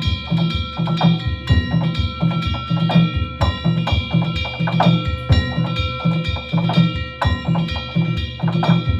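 Danjiri festival hayashi: taiko drums and ringing hand gongs (kane) playing a fast repeating rhythm, with low drum beats about twice a second under a constant metallic clang.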